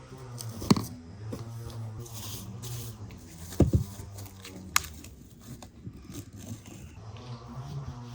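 Hands kneading soft yeast dough worked with softened butter: sticky squelching and tearing sounds, with a few sharp knocks, the loudest a double knock a little after halfway.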